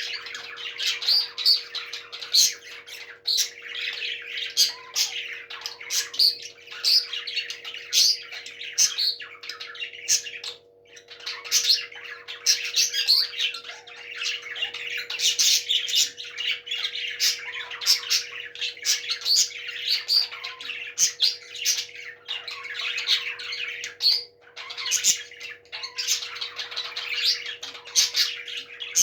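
Parrots chirping and squawking in a dense, unbroken chatter of short calls, with brief lulls about eleven and twenty-four seconds in.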